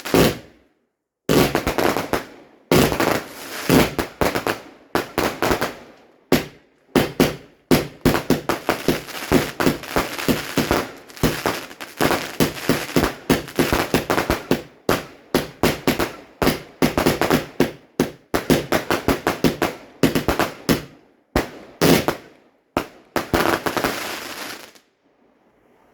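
Fireworks going off in a rapid barrage: dozens of sharp bangs and crackles in quick succession, a few short pauses between volleys, stopping shortly before the end.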